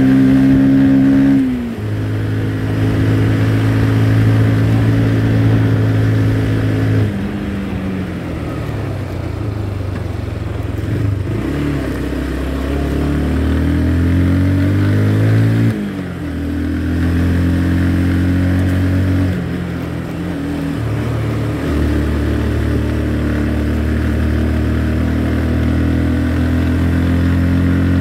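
Motorcycle engine running under way, its pitch holding steady for stretches and then stepping down or gliding up several times as the throttle and gears change.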